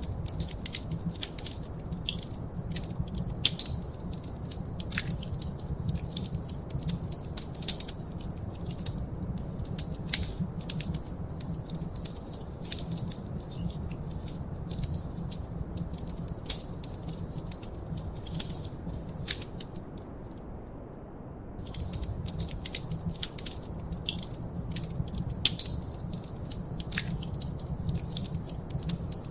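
Fireplace fire crackling: frequent sharp pops and snaps over a low steady rumble. The crackles stop for about a second and a half roughly two-thirds of the way through, leaving only the rumble, then start again.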